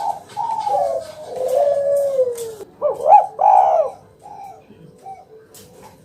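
Spotted dove (tekukur) cooing: a long coo that falls in pitch, then a louder, sharper group of notes about three seconds in, followed by a few short soft notes.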